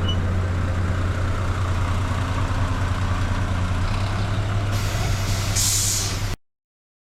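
Large diesel vehicle idling with a steady low hum, and a short sharp hiss of air near the end. The sound then cuts off abruptly.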